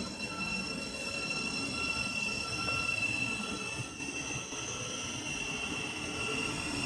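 Thameslink Class 700 electric multiple unit moving slowly into a siding, with a steady high-pitched squeal over the rumble of the train.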